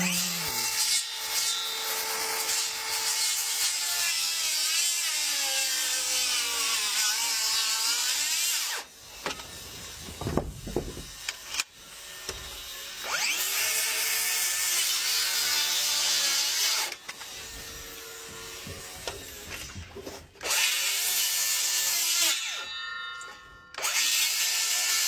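Power tool running into timber in several long runs with short pauses between, its motor pitch wavering as it takes load.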